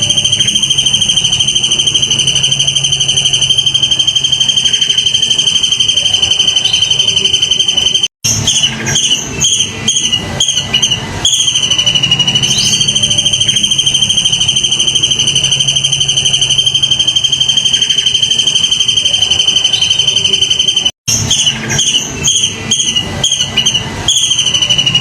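Looped recording of an insect's continuous high, fast-pulsing trill. The trill breaks off twice, each time for a few seconds of broken chirps before it starts again.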